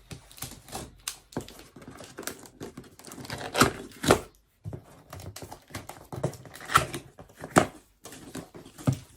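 Cardboard shipping box and its packaging being opened by hand: crinkling and tearing with a string of small clicks, and several sharper knocks, the loudest a little after three and a half seconds and about seven and a half seconds in.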